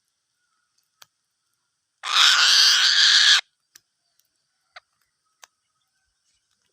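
An eagle gives one harsh, raspy screech about a second and a half long, starting about two seconds in. A few faint sharp clicks come before and after it.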